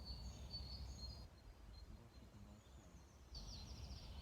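Faint outdoor ambience: small birds singing in short, high repeated chirps, then a quick falling trill near the end, over a low steady rumble.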